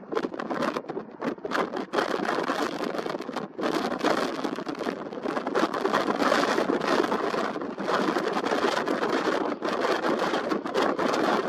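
Jet engine noise from a Boeing 787-8 Dreamliner passing close by. It is a loud, rough, flickering rush that swells toward the middle.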